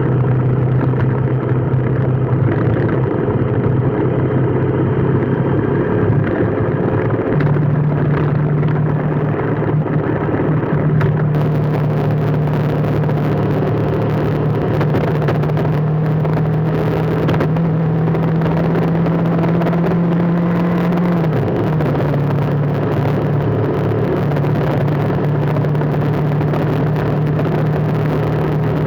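A vehicle engine drones at a steady low pitch that steps up or down a few times, with a constant hiss of road and air noise underneath.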